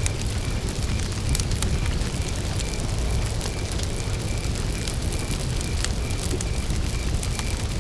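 Wood campfire burning with a low rumble and frequent small crackles and pops. A cricket chirps in a steady, even rhythm behind it.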